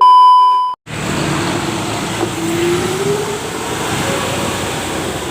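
A short, loud chime-like tone that cuts off under a second in, then the continuous sound of a vehicle on the road: engine and road noise with an engine note that slowly rises and falls.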